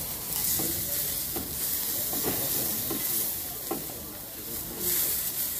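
Tomato slices sizzling on a hot oiled griddle as they are laid down one by one. The hiss swells twice, soon after the start and again near the end, with a few short clicks from the spoon and bowl in between.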